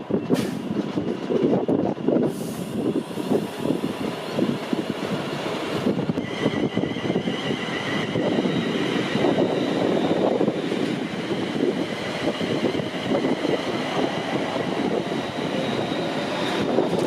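A train running through the station on the West Coast Main Line, with a loud, continuous rumble and clatter of wheels on rail. About six seconds in, a high-pitched whine joins and holds steady.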